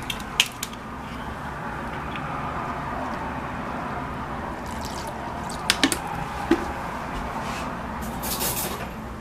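Water running steadily into a container for several seconds, with a few light clicks and knocks about half a second in and again around six seconds in.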